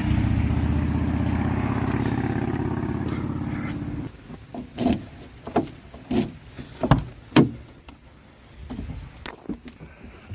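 An engine running steadily with a fast, even pulsing beat, which cuts off abruptly after about four seconds. Scattered knocks and thumps follow.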